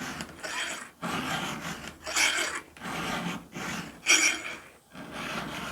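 Hand file stroked across a chainsaw chain's cutter tooth in a run of about seven short filing strokes, each under a second with brief gaps between. The cutter is being sharpened, the file now reaching the top plate.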